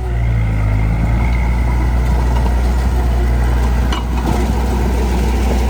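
Heavy diesel engine of an earthmoving machine running steadily in a low drone, picking up slightly in the first second. There is a short knock about four seconds in.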